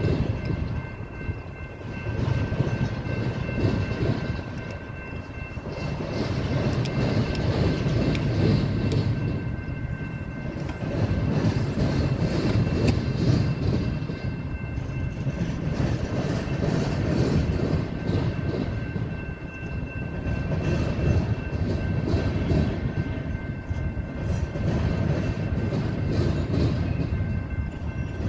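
Union Pacific double-stack container freight train rolling past, a steady rumble of wheels on rail with clickety-clack that swells and eases every few seconds.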